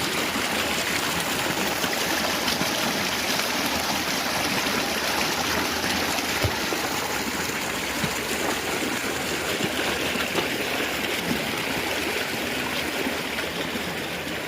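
Flowing water running steadily, like a stream or channel, with a brief faint thump about six seconds in.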